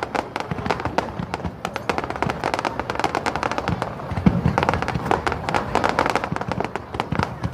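Fireworks going off as a dense, continuous crackle of many sharp pops a second, with no break.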